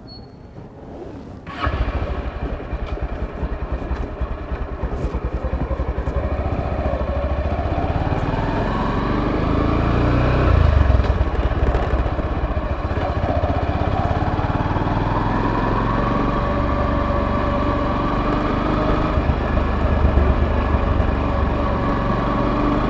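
Motorcycle engine comes in suddenly about a second and a half in and runs, its pitch rising as the bike picks up speed over the following seconds, then holding fairly steady while riding.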